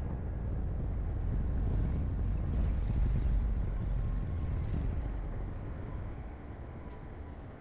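Heavy diesel earthmoving machinery rumbling at work, growing louder toward the middle and then easing off.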